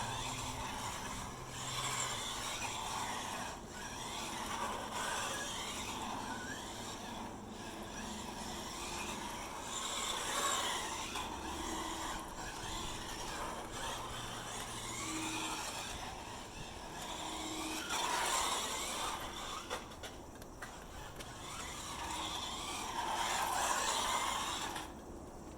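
SG 1604 RC drift car driving and sliding: the small electric motor and drivetrain whine rise and fall with the throttle over a rough hiss of drift tyres skidding. It comes in repeated surges several seconds apart and eases off near the end.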